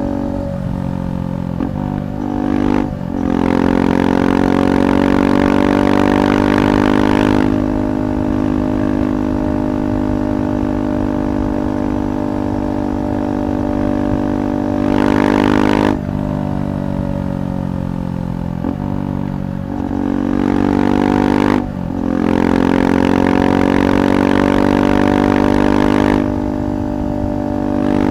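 KTM 390 Adventure's single-cylinder engine through a Red Rooster aftermarket exhaust, riding under load. It shifts up quickly a few times near the start with brief breaks in the exhaust note, pulls hard, eases off, then shifts up and pulls hard again near the end.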